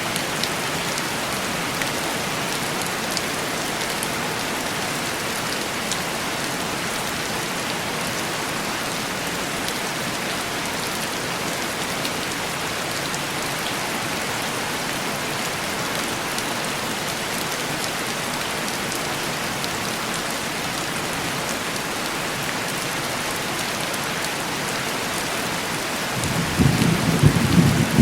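Steady heavy rain on a window pane, with a low rumble of thunder rising near the end.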